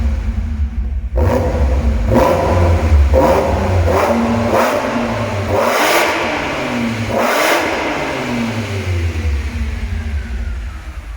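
BMW 330i straight-six revved through an aftermarket active catback exhaust: a run of quick throttle blips about once a second, then a longer rev that falls back to a steady low idle rumble.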